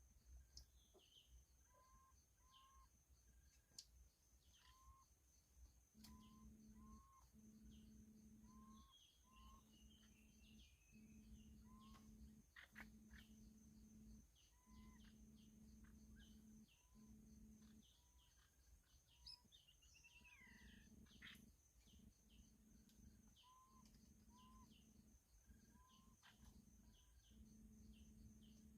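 Faint bird calls: short repeated paired notes and scattered chirps. Behind them are a steady high insect drone and a low hum that comes and goes.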